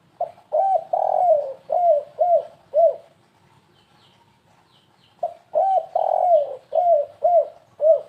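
Spotted dove (tekukur) cooing in two phrases of about six short arched coos each, a stuttering 'kuk-3' song of the kind used as a lure call.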